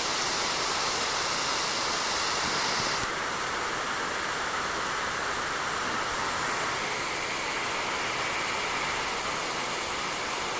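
Rain falling steadily on a roof, an even hiss that turns slightly softer about three seconds in.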